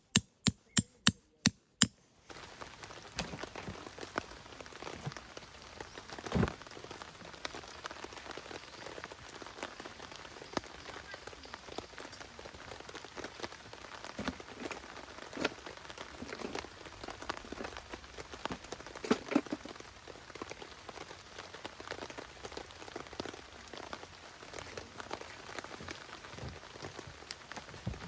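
Rain falling steadily, with scattered drops and a few louder pops. It is preceded by about two seconds of sharp knocks, about three a second, that stop abruptly.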